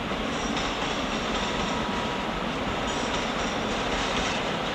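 A train rolling through the station tracks: a steady rumble and rush with a faint, thin, steady whine underneath.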